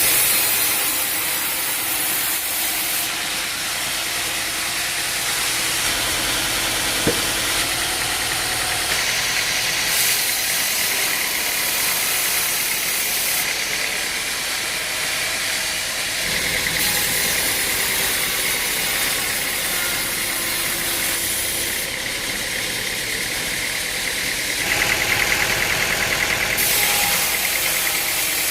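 Engine-driven wood-processing machinery running loudly with a steady hiss. The sound changes abruptly every few seconds.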